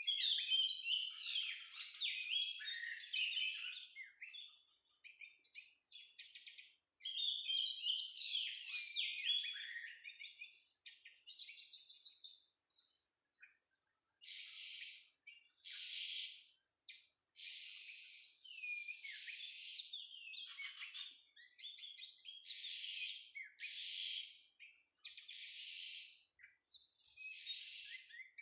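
Oriental magpie-robin (kacer) vocalizing: a varied, rapid whistled song for the first ten seconds or so, then a run of harsh, buzzy calls spaced a second or two apart.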